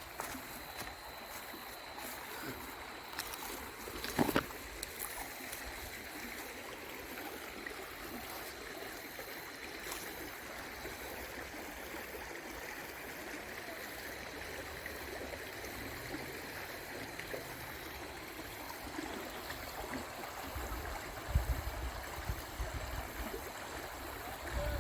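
Stream water flowing steadily over rocks, an even rushing sound. There is a sharp knock about four seconds in and a low rumble near the end.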